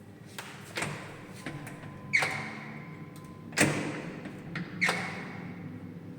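A run of about five sharp knocks or bangs, the loudest about two seconds and three and a half seconds in, several of them followed by a short ringing tone.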